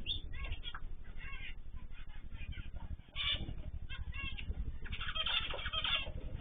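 Several small cage birds chirping and calling, with a dense burst of calls about five seconds in, over a low background rumble.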